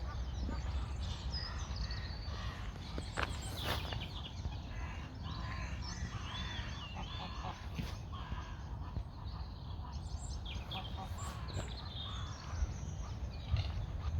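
Birds chirping and calling, many short rising and falling notes, over a steady low outdoor rumble, with a few low thumps near the end.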